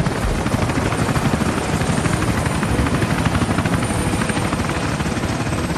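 Helicopter rotor noise: a steady, fast, even chopping of rotor blades with engine hiss, keeping a constant level.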